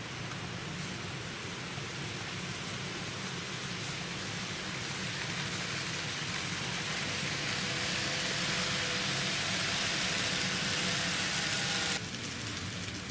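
N-gauge model train rolling along the track, its wheels rumbling on the rails and a faint motor whine underneath, growing louder as it comes closer. The sound cuts off abruptly near the end.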